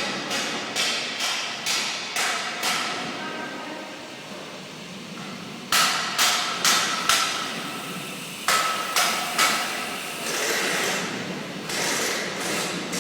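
A rapid series of sharp knocks, about two or three a second, many with a short metallic ring; the knocks pause briefly before the middle and start again louder.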